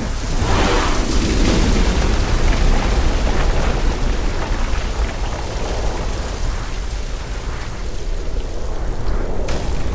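Sound-design meteor-storm ambience: a constant deep rumble under a dense rain-like hiss. A falling whoosh comes in at the very start, and a single sharp crack of an impact comes near the end.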